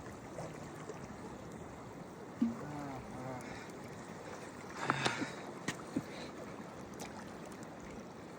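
Zanskar River water rushing steadily, a mountain river's constant flow. A faint voice sounds briefly about two and a half seconds in, and a short cluster of sharp clicks comes about five seconds in.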